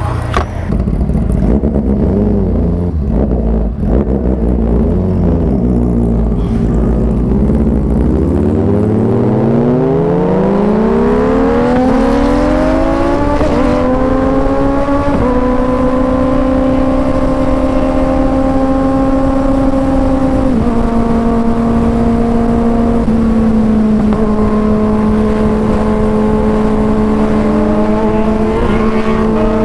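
Kawasaki Ninja inline-four sportbike with an aftermarket exhaust pulling away: a low rumble at first, then the engine note rising steadily for about five seconds, then a steady high-revving drone at cruising speed with a few gear changes. Low wind rush runs underneath.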